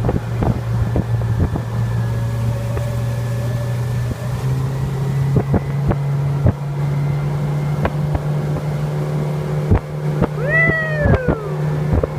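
Motorboat engine running steadily under way, its pitch stepping up about four seconds in, with repeated short knocks of the hull meeting waves. Near the end comes a short rising-then-falling cry.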